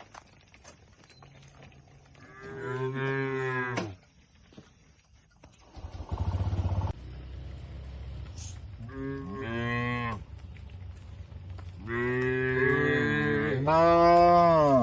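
Cattle mooing: four long calls, the last two back to back and the final one the loudest. A brief low pulsing rumble sounds between the first and second calls.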